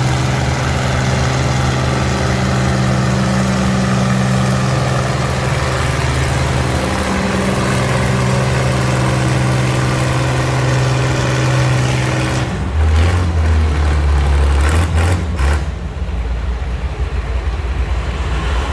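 Antique tractor engine running steadily at idle. About twelve seconds in, its note drops lower and turns louder and uneven for a few seconds, with scattered knocks, before it settles into a rougher rumble.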